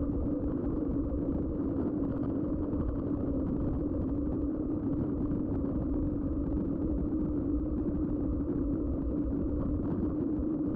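Mountain bike rolling at a steady speed: Schwalbe knobby tyres humming evenly on the road, with low wind rumble on the action camera's microphone.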